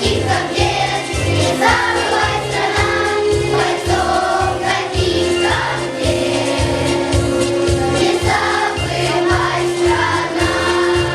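A group of children singing a song together over a recorded backing track with a steady bass beat.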